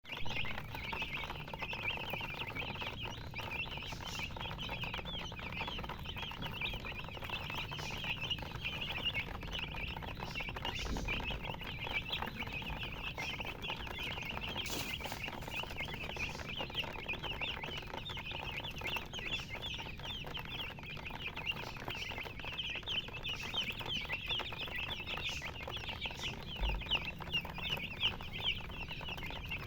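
A group of baby chicks peeping continuously, many short high chirps overlapping in a steady chorus.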